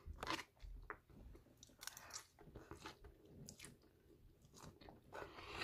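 Faint, close-miked chewing of chow mein noodles, in short wet mouth sounds spaced about a second apart, with a noodle strand sucked in.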